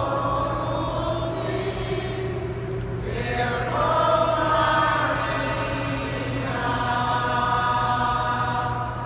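Church choir singing, the voices holding long notes.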